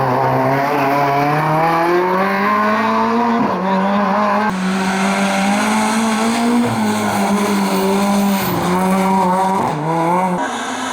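Historic rally car's engine running hard under acceleration: the pitch climbs, then dips sharply and recovers a few times as it shifts gear, about three and a half seconds in, again around eight and a half seconds and near the end.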